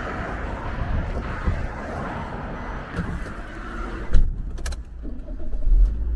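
Steady outdoor noise, then a car door shutting with a sharp thud about four seconds in, followed by a low car engine rumble that grows louder near the end.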